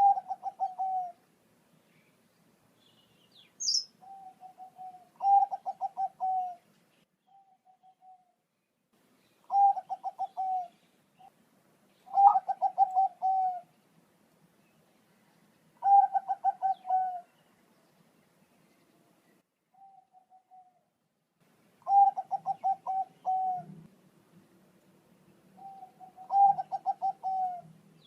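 Zebra dove (perkutut, Bangkok strain) calling: repeated cooing phrases of quick rolling notes ending in a drawn-out coo, one phrase every three to four seconds, with a brief high chirp about four seconds in.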